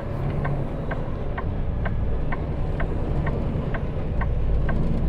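Semi truck cab: the diesel engine rumbles low and steady while the turn signal ticks evenly about twice a second.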